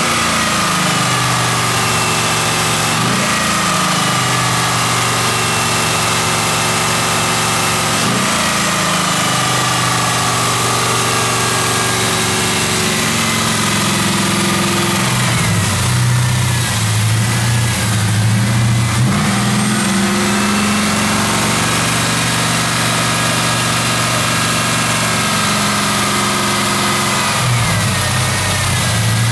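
1998 Chevrolet Camaro SS's 5.7-litre LS1 V8 idling, with the throttle blipped a few times so that the pitch rises and falls. It is a 66,000-mile engine that the seller says sounds and runs good.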